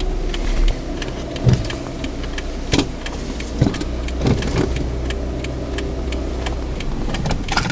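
Manual-transmission car's engine running, heard from inside the cabin, its low hum shifting a little as it is driven, with occasional knocks and clicks.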